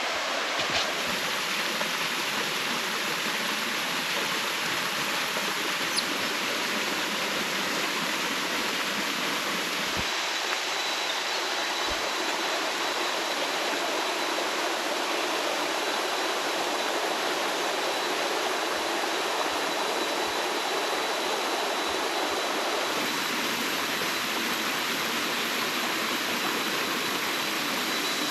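Steady rush of river water pouring over the rock steps of a cascading waterfall.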